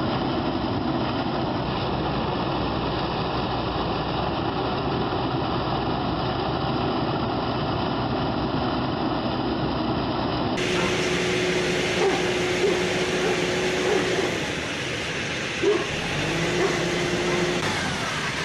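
Heavy machinery engine running steadily. About ten seconds in, a cut to another machine brings a steady whining tone that stops and returns, with a few short knocks.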